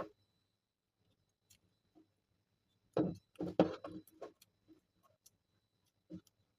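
A few scattered clicks, then a short cluster of knocks and clatter about three seconds in, over a faint steady high whine and low hum.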